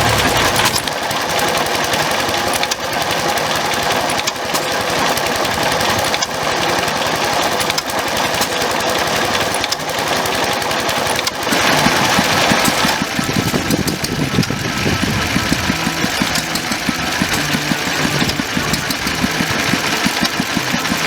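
Vintage stationary engines running with a steady, fast chugging beat. The sound changes abruptly about eleven seconds in, becoming louder and heavier.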